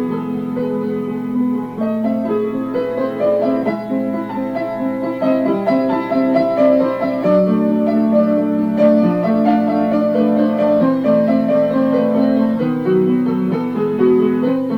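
Solo piano playing a slow, sustained passage of held chords that change every second or two.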